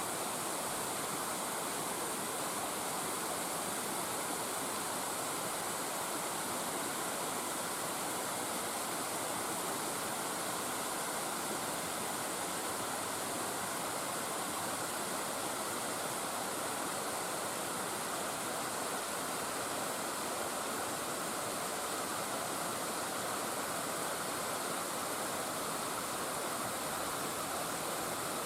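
Small cascades of a mountain stream pouring over a bedrock slab: a steady rush of falling water with a bright hiss, unchanging throughout.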